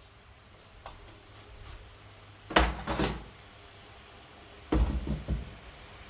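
A light click, then two loud knocks in quick succession about two and a half seconds in, and a short cluster of knocks about two seconds later, over a low background hum.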